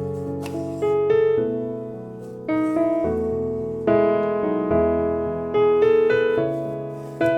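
Soft background piano music: slow chords and melody notes struck about once a second, each left to ring and fade.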